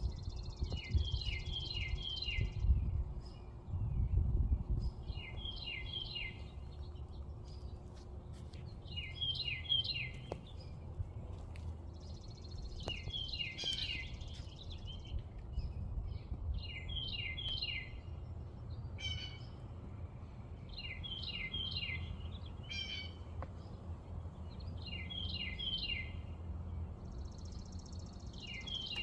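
A songbird singing the same short phrase over and over, about every three seconds: a run of quick falling notes, some phrases opening with a buzzy note, with a few sharp chips between. Wind rumbles on the microphone underneath, gustiest in the first few seconds.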